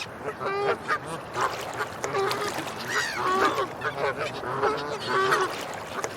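A group of waterfowl calling again and again, several birds overlapping in short, repeated calls.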